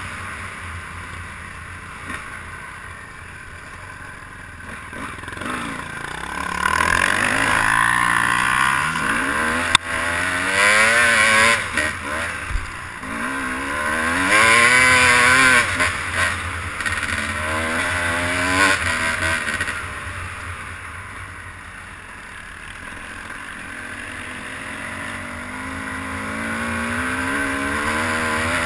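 A vehicle's engine being ridden, revving up and easing off several times, with a long slow rise in pitch near the end.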